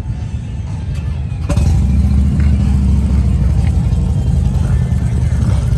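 Motorcycle engines rumbling, getting louder about a second and a half in, with music playing over them.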